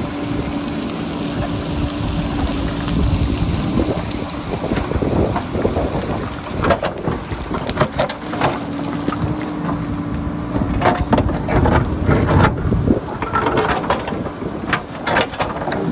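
JCB backhoe loader's diesel engine running steadily, with irregular knocking and scraping of the bucket working rock and rubble through the middle and again near the end. Wind buffets the microphone.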